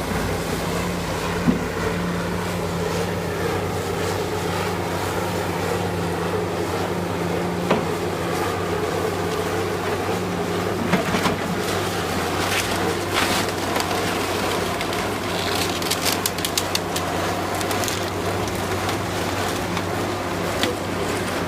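Heavy demolition machinery's diesel engine running steadily, with scattered sharp knocks and clatters of breaking debris.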